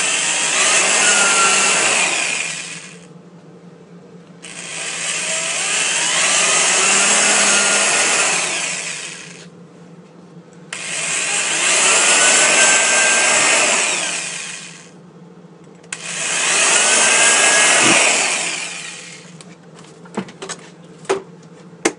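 Electric drill boring pilot holes into a wooden birdhouse base plate: four runs of a few seconds each, the motor pitch rising as each run starts. A few light clicks and knocks near the end.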